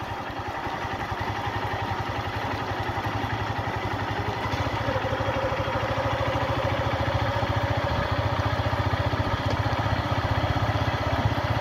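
Motorcycle engine running steadily at low speed with a rapid, even beat. A faint steady whine joins it a little before halfway.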